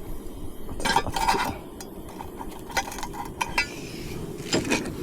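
Eating utensils clinking and scraping against a dish or pot: a cluster of scrapes about a second in, several light taps around three seconds, and another scrape near the end.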